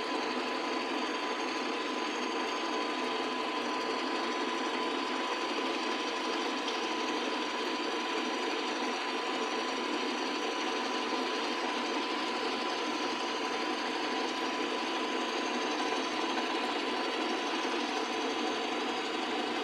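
Harbor Freight 79cc single-cylinder four-stroke engine running steadily with a fast mechanical clatter.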